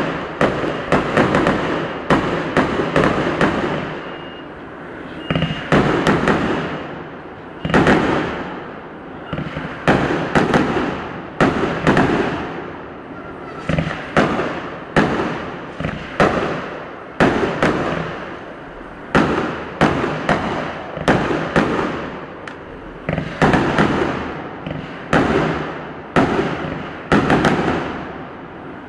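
Aerial fireworks shells bursting: a rapid string of bangs at the start, then single bangs about once a second, each trailing off in a fading rumble.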